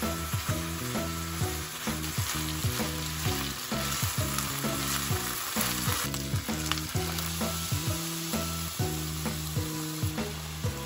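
Eggplant and ground meat sizzling steadily as they fry in a nonstick frying pan, with light background music playing under it.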